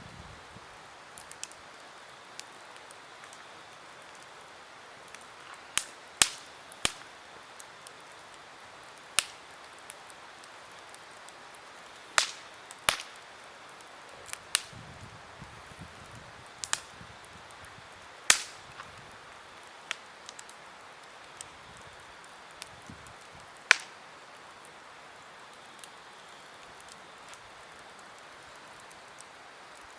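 Campfire crackling: irregular sharp pops and snaps of burning wood over a steady low hiss, with a few louder pops spaced several seconds apart.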